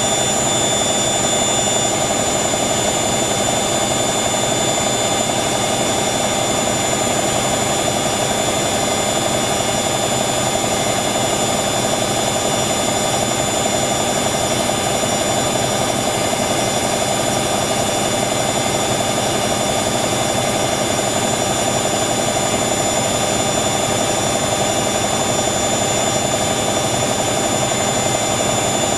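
Hoover slim washer dryer spinning its drum at high speed: a steady motor whine over the rush of the drum, holding an even pitch and level throughout.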